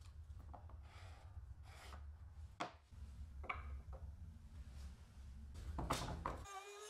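Scattered knocks and short scrapes of wood and tools being handled, over a low steady hum, with a louder cluster of knocks about six seconds in. Music starts just before the end.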